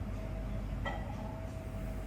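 Café room noise: a steady low rumble with a thin steady hum, and a single short clink about a second in.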